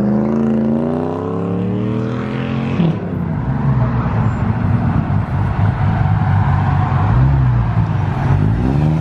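A car engine revving hard, its pitch climbing for about three seconds, then dropping sharply. It runs on at high revs with a rough, noisy sound and climbs again near the end.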